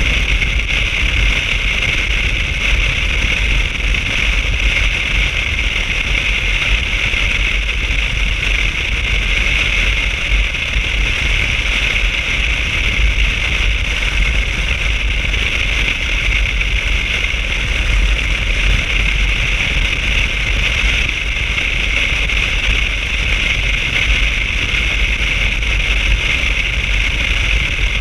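Motorcycle on the move: steady wind rush over the microphone with a low rumble underneath, holding even throughout.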